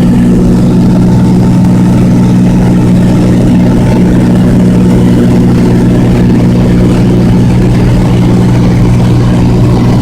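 Cessna 206's single piston engine and propeller running steadily, heard from inside the cabin as a loud, even drone with no change in pitch.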